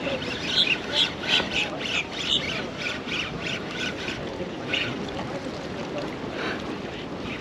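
A bird squawking in a quick series of short calls, about three a second for the first three seconds, then a few scattered calls.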